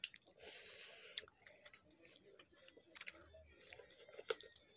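Quiet close-up eating sounds: chewing with many small wet mouth clicks, and fingers mixing rice by hand. There is a short soft hiss near the start.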